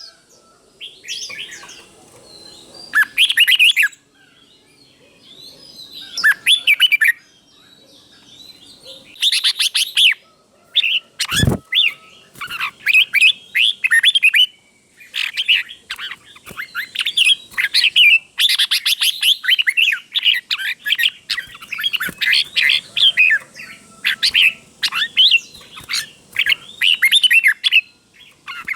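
Red-whiskered bulbul singing short, bright warbled phrases, spaced out with pauses at first and coming almost without break in the second half. A single sharp knock sounds a little over a third of the way through.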